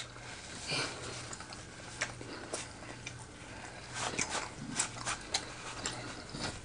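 A person chewing a mouthful of pork chop close to the microphone: scattered wet mouth clicks and lip smacks, busiest about four to five seconds in.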